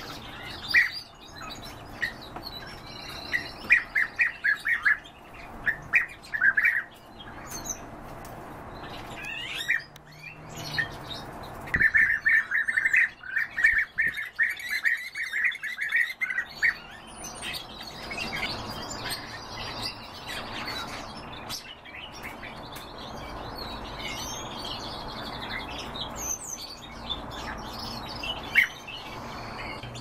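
Cage birds chirping and calling. There are quick series of rapid notes in the first seven seconds and again from about twelve to sixteen seconds in, then a steadier mix of scattered chirps.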